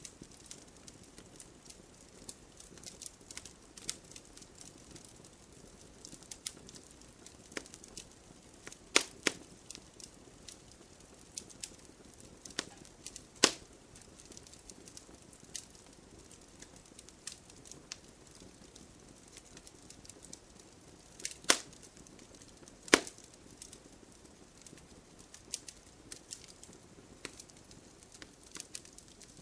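Wood fire crackling in a fireplace: a steady scatter of small pops and ticks over a faint hiss, broken by a few louder, sharper snaps.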